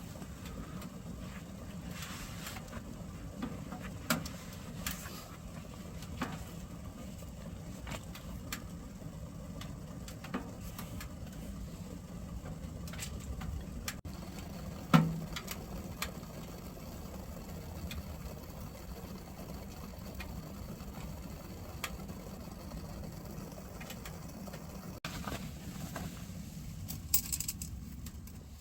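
Wood fire burning in a Solotour fireplace-style three-sided wood stove: scattered crackles and pops over a steady low rumble, with one louder knock about halfway through.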